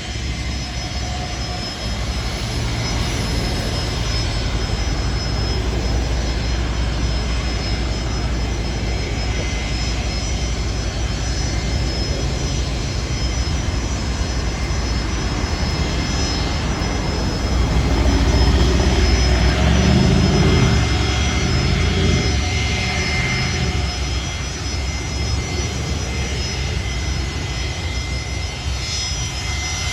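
Jet airliner engines running with a steady high whine over a deep rumble. The noise swells to its loudest about two-thirds of the way through, then eases off a little.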